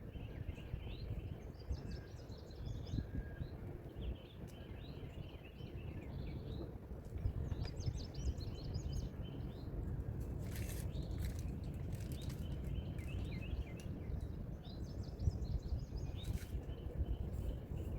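Small birds chirping and trilling in short repeated bouts, over a steady low rumble.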